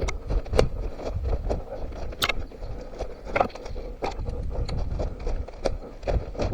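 A runner's footsteps heard from a head-mounted camera: irregular footfalls and crunches every half second or so over a constant low rumble of movement and wind on the microphone.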